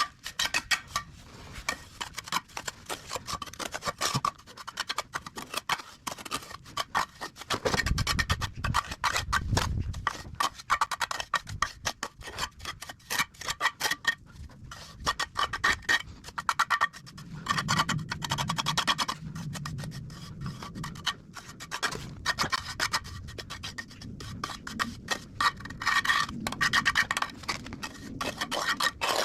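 A trowel scraping and spreading wet cement mortar in quick, repeated strokes.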